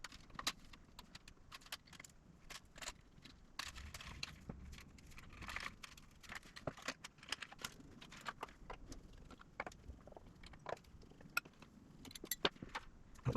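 Irregular light metallic clicks, clinks and jingles as a fretless Fender Precision Bass is taken apart, its strings and hardware handled.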